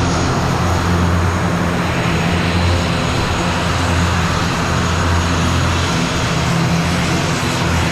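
Steady drone of an airliner's engines heard from inside the cabin: a constant low hum under an even rushing noise.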